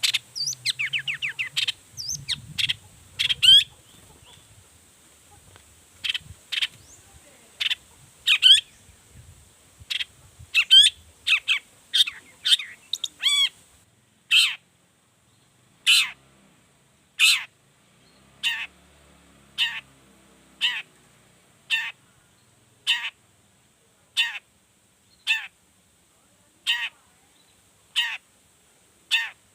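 Long-tailed shrike singing: a fast, varied run of trills, chirps and harsh notes, then about halfway through a short harsh call repeated roughly once a second.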